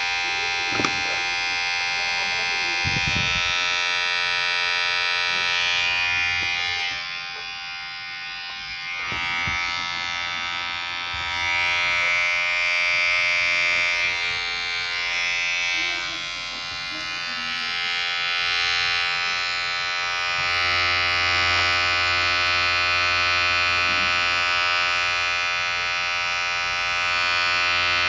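Electric hair clipper running with a steady buzz, its loudness and tone swelling and fading slowly as it moves.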